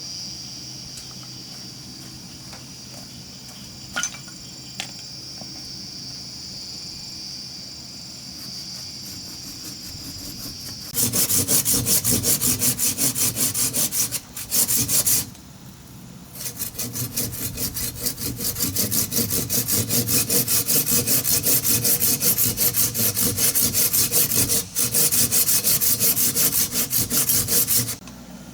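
Steady high insect buzzing with a couple of light knocks, then a hand saw cutting wood in quick, even strokes, about three a second, with a short pause partway through.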